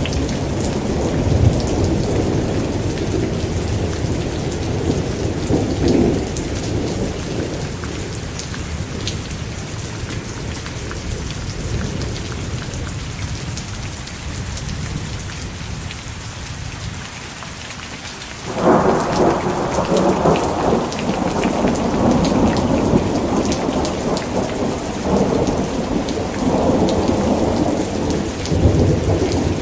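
Steady rain with rolling thunder. A low rumble dies away over the first half, then a sudden loud thunderclap about two-thirds of the way in rolls on to the end.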